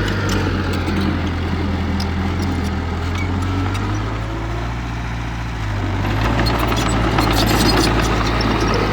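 Heavy diesel engine of earthmoving machinery running steadily, with scattered clanks and rattles over it; the engine eases a little around the middle and picks up again.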